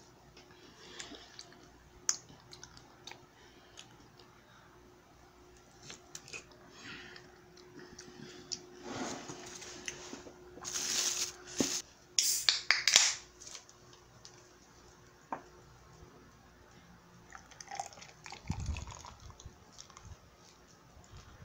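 A child biting into and chewing a ripe plum: small wet smacks and clicks, with a cluster of louder slurping bites about halfway through. A faint steady hum sits underneath.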